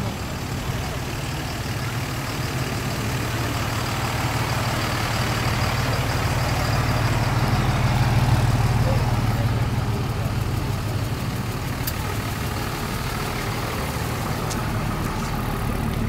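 Car engine running at low speed as it drives slowly past, its deep rumble growing louder to about halfway and then fading.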